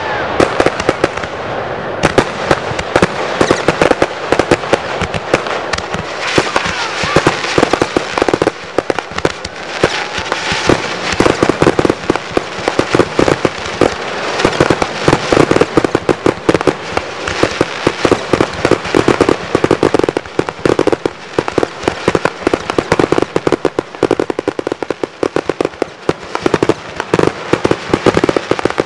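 1.3G display fireworks going off in a dense, continuous barrage of rapid bangs and crackle.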